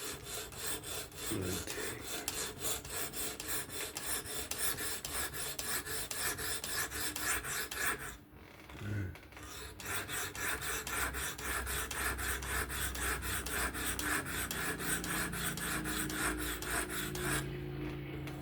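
A Spyderco Kapara's S30V blade being stroked back and forth against the stone of a Work Sharp Professional fixed-angle sharpener: a steady, quick rasping rhythm of about three strokes a second, broken by a short pause about eight seconds in.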